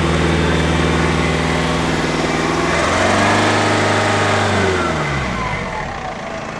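BMW E46 engine idling, then revved once about three seconds in: the pitch rises, falls back, and settles to a quieter idle. The car is running after standing unused since August.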